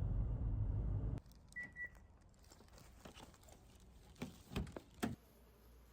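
A household appliance running with a steady low hum stops about a second in, followed by two short electronic beeps and then a few clicks and knocks.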